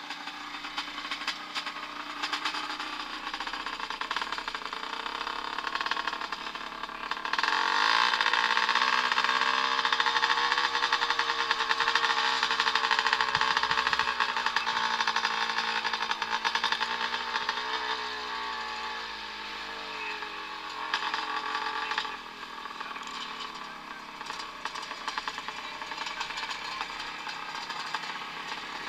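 Vintage motocross motorcycles racing, engines revving with pitch rising and falling as they accelerate and shift. The sound gets much louder about seven seconds in, holds for about fifteen seconds, then drops back.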